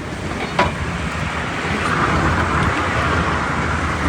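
Road traffic going past: a steady rush of vehicle noise that swells as a vehicle passes about halfway through, with one sharp click near the start.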